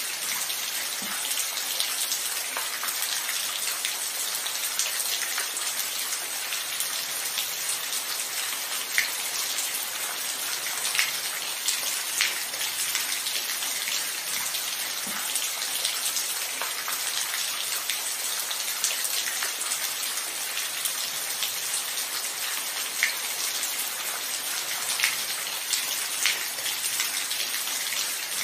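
Steady rain falling, a constant hiss with individual drops ticking distinctly every second or so.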